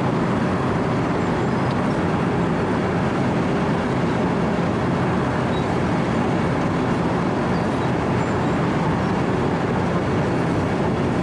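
Wirtgen W 120 CFi cold milling machine running at work, its engine and cutting drum milling asphalt in one loud, even, unbroken noise.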